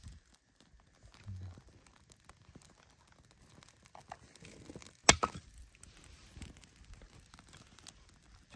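Dry firewood being handled, with faint rustling and crinkling and one sharp crack about five seconds in, followed closely by a smaller one.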